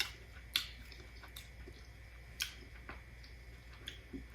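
Close-up eating sounds of someone chewing seafood: soft wet mouth clicks and smacks, with a few sharper ones about half a second and two and a half seconds in.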